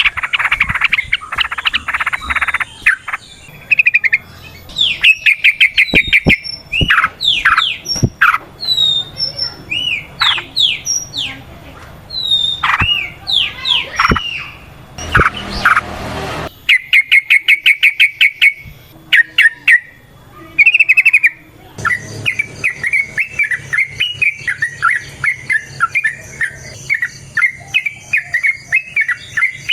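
Yellow-vented bulbul (trucukan) song: loud, bubbly chattering phrases and long, fast trills of repeated notes, with a continuous rapid run of notes through the second half. A brief rush of noise comes about 15 seconds in.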